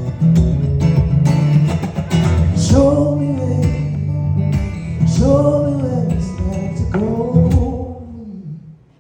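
Live song ending: strummed guitar with a singer holding several long notes, the music fading out near the end.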